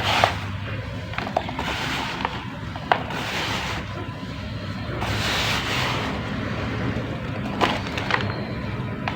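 Water poured onto dry cement, which soaks, crumbles and hisses in surges every second or two, with a few sharp cracks and snaps as pieces break.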